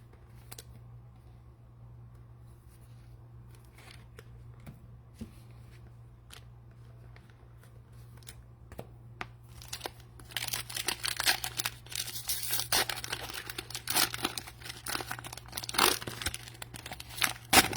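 Plastic cello-pack wrappers of trading cards being handled, then torn open and crinkled. The crinkling starts about ten seconds in and is much louder than the faint handling clicks before it. A steady low electrical hum runs underneath.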